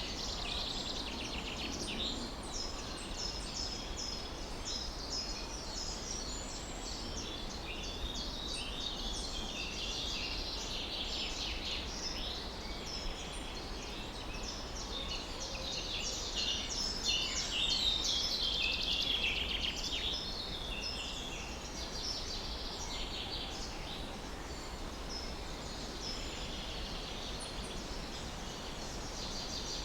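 Several songbirds chirping and singing at once in a busy chorus of short, high notes and trills, with a steady low rumble underneath.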